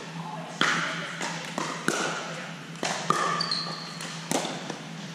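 Pickleball paddles striking the hard plastic ball, seven or so sharp pocks at an uneven rally pace that ring a little in a large hall, with short sneaker squeaks on the court floor between hits.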